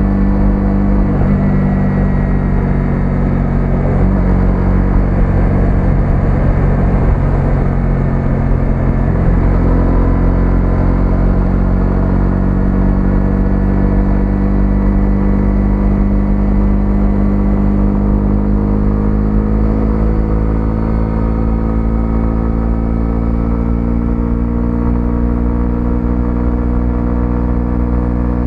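125cc single-cylinder motorcycle engine running on the move. Its pitch steps a few times in the first ten seconds, then holds steady and slowly rises.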